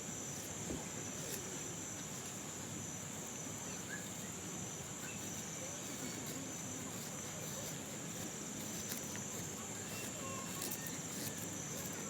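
Crickets singing in a steady high trill, with a few faint scraping strokes of a knife shaving a wooden feather stick.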